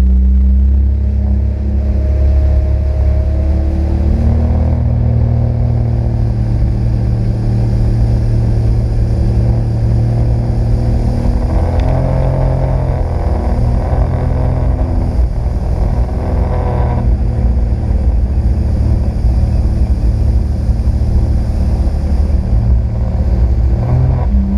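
Sea-Doo RXP-X 260 jet ski under way, its supercharged three-cylinder engine running steadily under a loud low rumble. The pitch shifts a few times as the throttle changes, notably about halfway through and again near the end.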